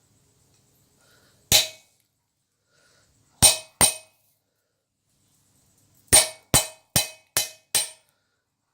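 Hammer blows on steel over an anvil, each with a short metallic ring: a single blow, a pair, then a quick run of five, knocking a sheared slug out of a freshly punched hole in the tong stock.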